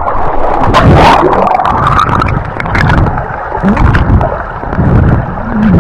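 River water sloshing and gurgling loudly around a person moving through deep water, with scattered splashes and knocks.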